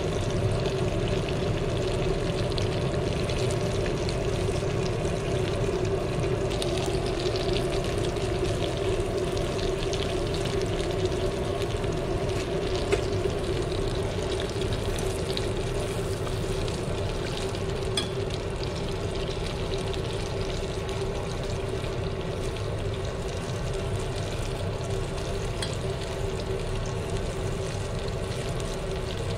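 Chicken skin deep-frying in a small stainless steel pot of bubbling oil, a steady sizzle, with a steady low hum underneath.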